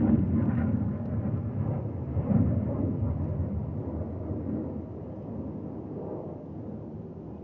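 Military jet passing overhead: a deep, steady rumble of its engines that fades slowly away as it flies off.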